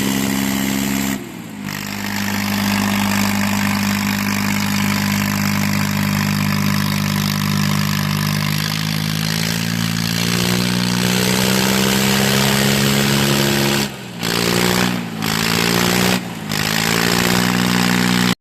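Tractor diesel engines running hard under load, a steady drone that shifts pitch a few times. It breaks off abruptly about a second in and three times near the end.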